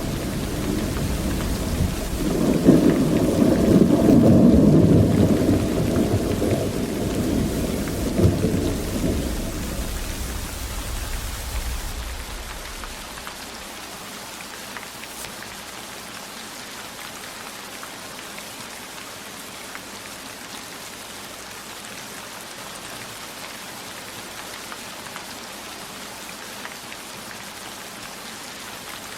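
Steady rainfall with a long roll of thunder that swells a few seconds in and rumbles away by about halfway, leaving only the even hiss of rain.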